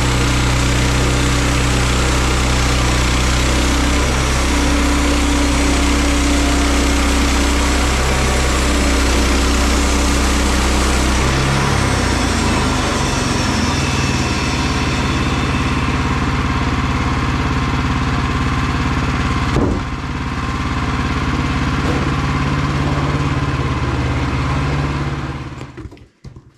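Woodland Mills HM122 band sawmill's gas engine running steadily. Its note shifts about halfway through, a single knock comes a few seconds later, and the engine shuts off just before the end.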